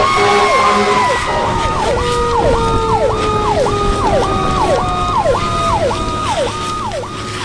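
Several emergency-vehicle sirens sounding at once. A slow wail falls gradually in pitch, and from about two seconds in another siren sweeps up and down about twice a second, over a low steady hum.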